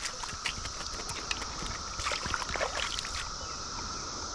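Steady drone of a Brood XIV periodical cicada chorus, with small splashes and clicks of stream water close by that stop about three seconds in.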